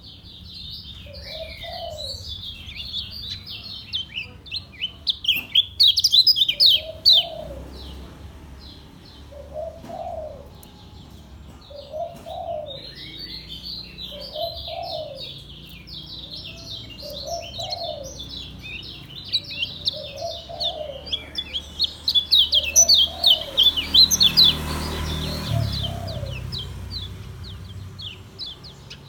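Kecial kuning (white-eye) singing its fast 'ngejos' song: long, rapid streams of high chirps with brief breaks, busiest near the start and again toward the end. A lower, short cooing call repeats about every second and a half underneath.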